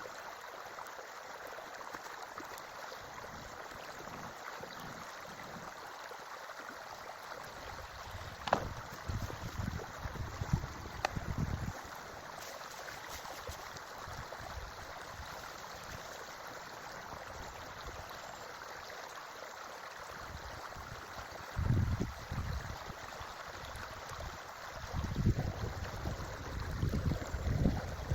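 A forest creek flowing steadily. Several spells of low rumbling come and go, with two sharp clicks about eight and eleven seconds in.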